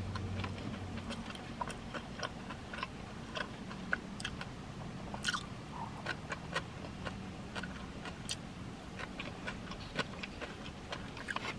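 Close-miked chewing of a mouthful of bacon cheeseburger: irregular wet mouth clicks and smacks, a few each second.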